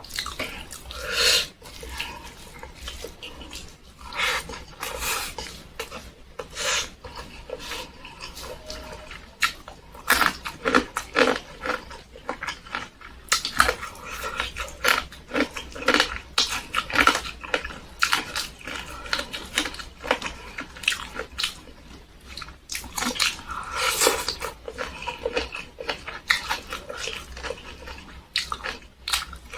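Close-miked eating sounds: irregular wet chewing, smacking and biting noises as someone eats tempe with sambal.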